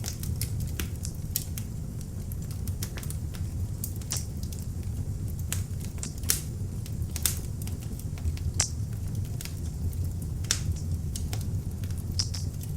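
Beech-wood log fire burning in an open fireplace: irregular sharp crackles and pops over a steady low rumble of the flames.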